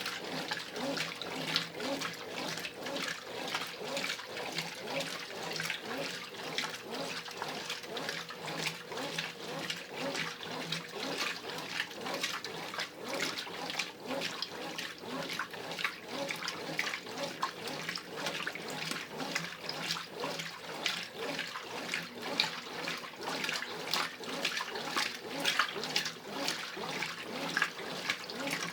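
Brastemp Ative 11 kg top-load washing machine agitating in its wash stage, water and laundry churning and sloshing in the drum, surging in a regular rhythm.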